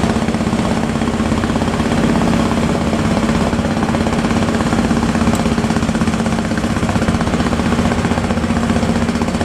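Fishing boat's diesel engine running steadily with a rapid, even pulse.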